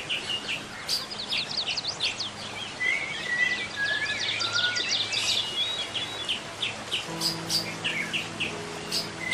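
Many birds chirping and whistling in quick, overlapping calls. About seven seconds in, low held music notes come in underneath.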